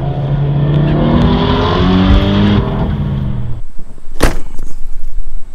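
A car engine revving, its pitch climbing steadily for about three seconds before cutting off abruptly, followed by one short, sharp burst of noise about four seconds in.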